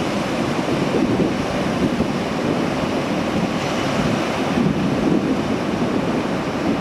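Sea waves rushing steadily, with wind buffeting the microphone.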